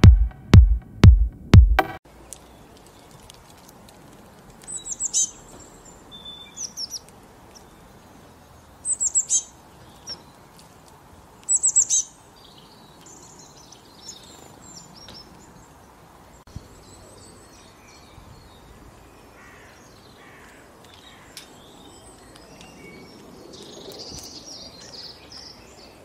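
Electronic intro music with a heavy, evenly spaced kick beat, cutting off about two seconds in. Small birds then chirp in short, high-pitched clusters, four of them over the next ten seconds, with fainter scattered calls later over a quiet outdoor background.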